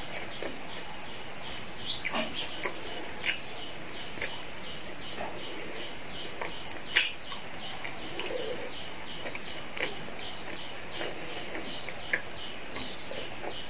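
Close-up eating sounds of French fries being chewed, with wet mouth smacks and sharp clicks, the loudest about halfway and near the end. Behind them runs a steady high chirping, repeating about three or four times a second.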